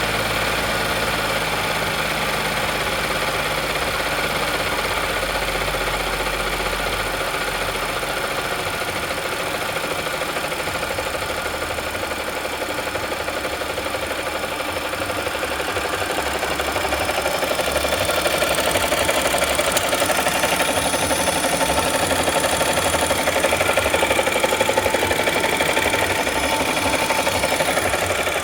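2014 Audi S4's supercharged 3.0-litre V6 running with a rapid, steady knock, which the owner takes for rod knock in the failed engine. It gets a little louder about two-thirds of the way through.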